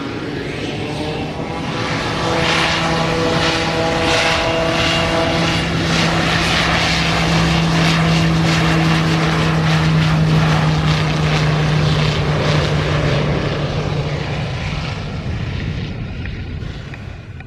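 Propeller airplane passing close with a steady engine drone. It grows louder over the first several seconds, then fades away near the end.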